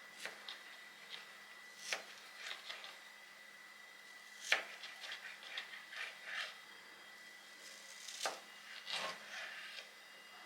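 Irregular light knocks and taps with some rubbing, scattered through the stretch, over a faint steady high-pitched tone.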